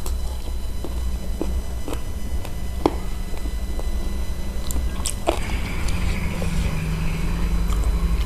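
Eating spicy chicken feet: scattered sharp clicks and smacks of biting and chewing the meat and skin off the bones, over a steady low hum.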